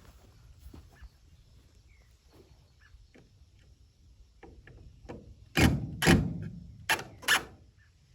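Wooden boards being handled and knocked: light taps and clicks, then four loud knocks in quick succession about two-thirds of the way in.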